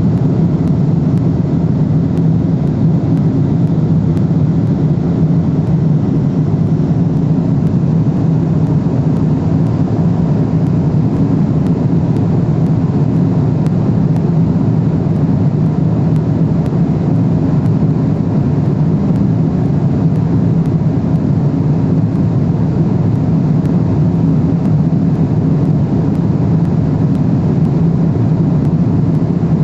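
Steady cabin noise of a Boeing 777-300ER in cruise: a low, even drone of its GE90 engines and the airflow over the fuselage, unchanging throughout.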